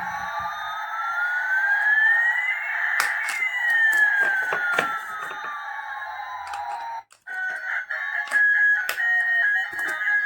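Electronic sound effects from a battery-operated toy's sound chip: a buzzy tone with a siren-like pitch that sweeps up for about three seconds and back down, stopping about seven seconds in, after which a beeping electronic tune starts. Sharp clicks sound throughout.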